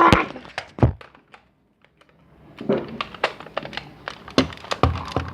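Knocks and clicks of a gun being handled and cocked: a thud at the start and another just under a second in, then after a short pause a quick, irregular run of sharp clicks.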